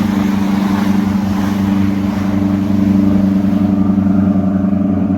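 Motorboat engines running steadily as a boat passes close by: a loud, even drone whose higher hiss thins out near the end.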